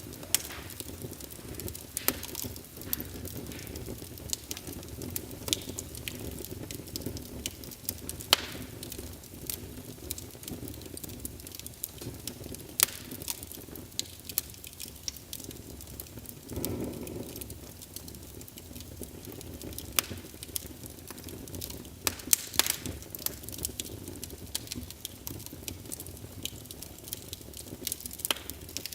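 Wood fire burning in a fireplace, crackling with frequent sharp pops over a steady low rumble, with a brief louder low surge just past halfway.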